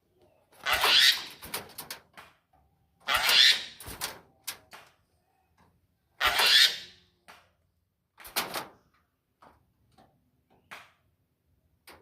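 Jalak starling giving four loud, harsh calls, each about half a second long and a couple of seconds apart, with short clicks in between.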